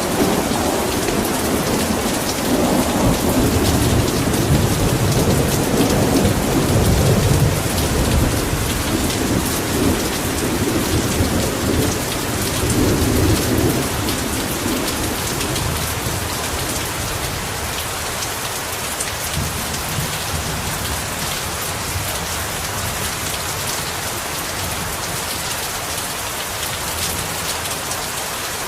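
Heavy rain pouring steadily, with a long rolling rumble of thunder over the first half that dies away about halfway through.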